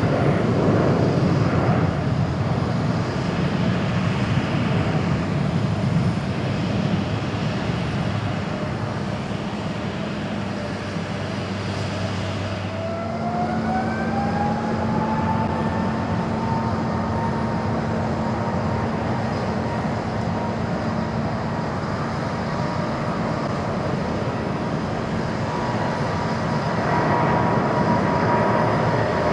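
Jet airliner engines at takeoff: first a Boeing 737-800's roar as it climbs away. Then, about 13 s in, a Boeing 777-200's engines spool up with a rising whine that levels off into a steady high whine over the roar of takeoff thrust.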